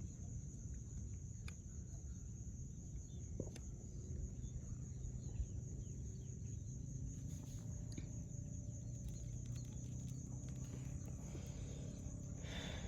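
Quiet open-air ambience on a lake: a low steady rumble with a thin, steady high-pitched whine above it and a few faint clicks.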